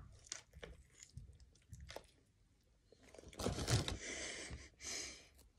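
A mouthful of Burger King Whopper being chewed, with small wet clicks and crunches of lettuce, then a few louder hissy stretches over the last two seconds.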